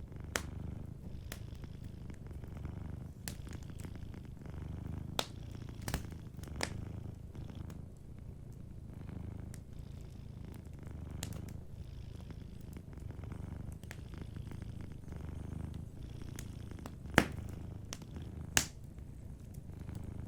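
Domestic cat purring steadily, a low rumble that swells and eases every second or two. Over it, sparse sharp crackles and pops from a fireplace, the two loudest pops near the end.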